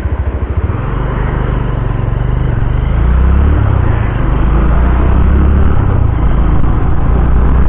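Honda motorcycle engine pulling away from a standstill: separate low firing pulses in the first second, then a steady drone that rises slightly in pitch and grows louder as the bike accelerates.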